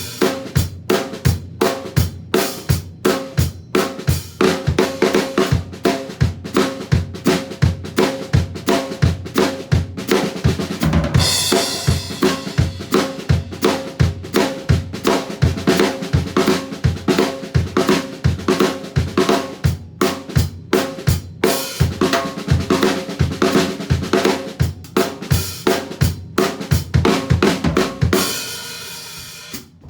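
Acoustic drum kit playing a swung groove: a steady quarter-note bass drum under snare, hi-hat and rimshots, with a cymbal crash about eleven seconds in and another near the end.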